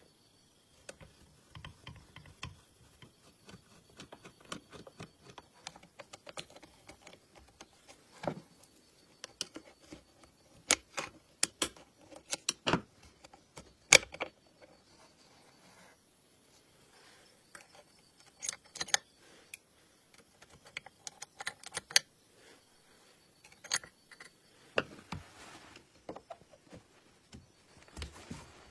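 Irregular metallic clicks, clinks and taps of small parts and hand tools being handled on an old household sewing machine under repair, with a run of sharper taps in the middle.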